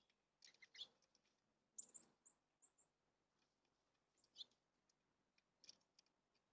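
Faint high-pitched chirps from a small bird, short calls in a few scattered clusters, with a quick run of four or five thin notes about two seconds in.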